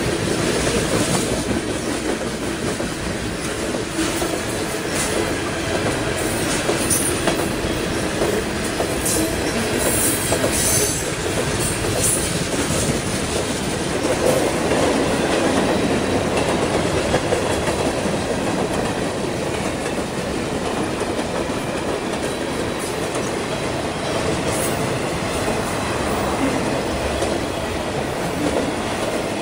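Freight train cars rolling steadily past, wheels clattering over the rail joints, with brief high wheel squeals about ten seconds in.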